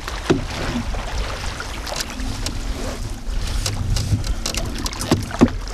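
Wind buffeting the microphone in a low rumble, with water splashing and knocking against a canoe on the water, a few sharp knocks standing out.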